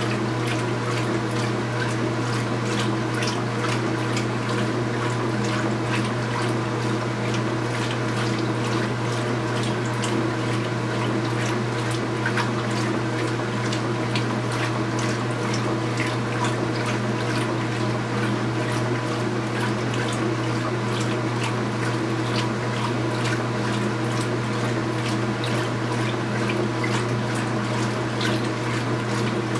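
2015 Speed Queen 8 Series top-load washing machine running mid-cycle: a steady motor hum with water sloshing and splashing inside the tub.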